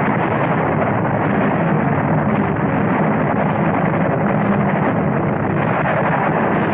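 Continuous dense roar of wartime explosions and rumbling, steady in level without clear separate blasts, muffled on an old film soundtrack.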